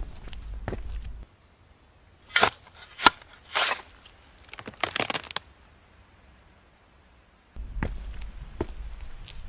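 Footsteps over a low outdoor rumble, which cut off about a second in. Four short, sharp cracking, crackling noises follow over the next few seconds. The footsteps and rumble return near the end.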